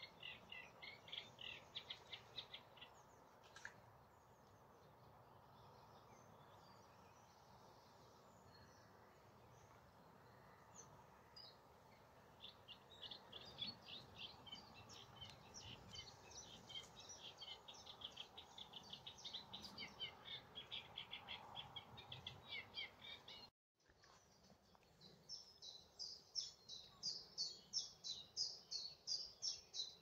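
Faint songbird song: several runs of rapid, chattering trills, with a short break in the sound about two-thirds through, after which a higher trill starts.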